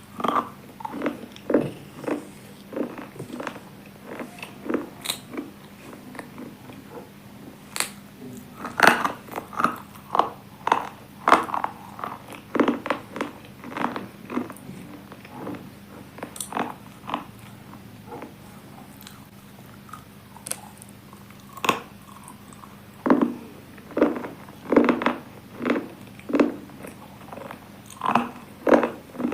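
Close-up crunching as hard, brittle slate pieces are bitten and chewed, in irregular bites, some coming in quick clusters.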